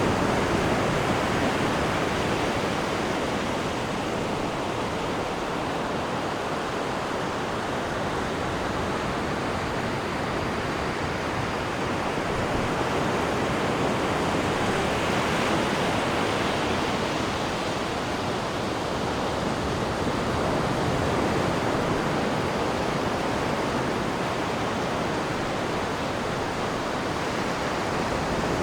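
Churning water of a cruise ship's wake behind the stern: a steady rush that swells and eases slowly.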